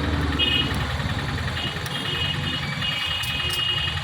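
An engine or motor running steadily with a rapid low pulsing, with a thin high whine coming and going over it.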